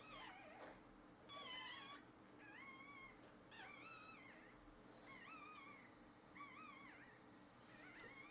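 Newborn Shiba Inu puppies squealing: a run of about eight short, high-pitched, wavering cries, roughly one a second, the loudest a little over a second in.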